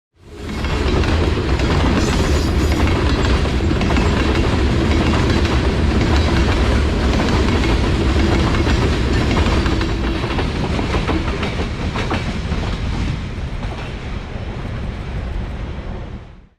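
Freight cars of a sand train rolling past at speed: a steady low rumble of steel wheels on rail with scattered clicks over the rail joints, easing slightly in the last few seconds.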